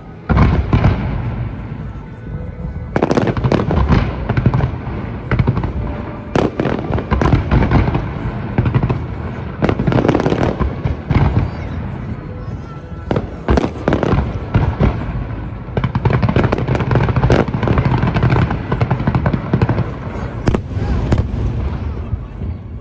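Fireworks display: aerial shells bursting one after another with loud bangs and crackling, the first big bang just after the start.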